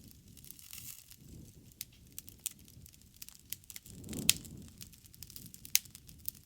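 Wood bonfire burning: irregular sharp crackles and pops over a low rush of flame. The loudest pop comes a little after four seconds in, as the flame noise swells.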